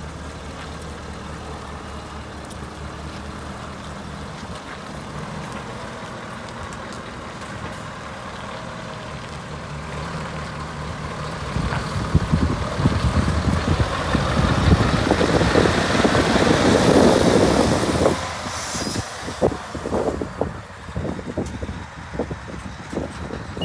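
Scania R730 truck's V8 diesel engine idling steadily, then running louder and heavier from about halfway through. A short hiss of air comes near the end, followed by irregular thumps.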